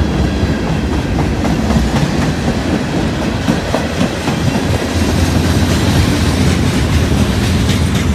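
Freight train cars rolling past, wheels clattering over the rail joints in a steady, loud rumble.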